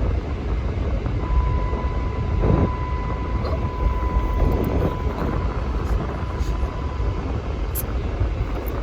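Car cabin road noise: the steady low rumble of a car being driven, heard from inside. A thin, steady high tone joins in about a second in and holds.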